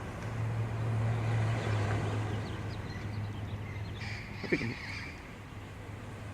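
Feral green parrots calling, with one harsh squawk about four to five seconds in, over a steady low hum.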